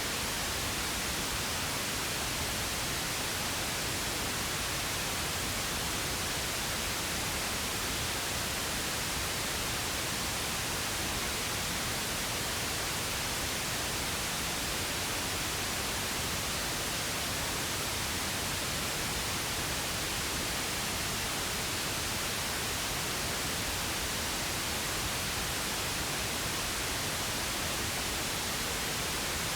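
Steady pink noise: an even, unchanging hiss spread across all pitches, with no other events.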